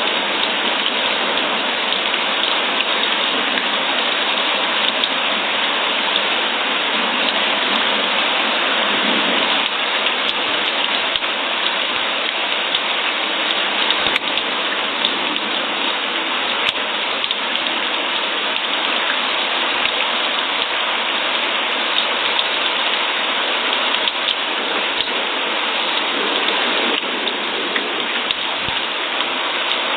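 Steady rain: an even, unbroken hiss with a few faint individual drop ticks scattered through it.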